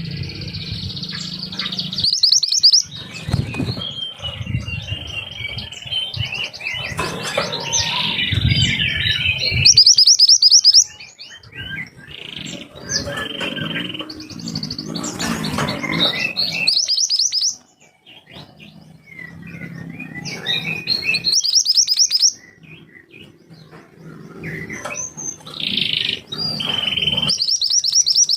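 A mantenan gunung songbird singing sharp, fast trills of high notes in repeated bouts, over a low background rumble.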